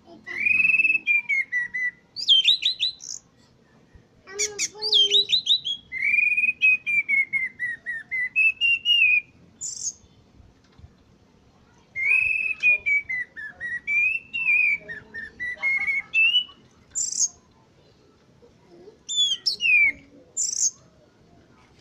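A Rote punglor, a ground thrush, singing in phrases of rising and falling warbled whistles with higher sharp notes mixed in, broken by short pauses around ten seconds in and again near the end.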